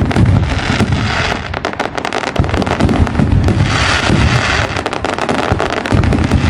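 Fireworks going off in quick succession: a dense run of bangs and pops, with a thick spell of crackling about three and a half seconds in.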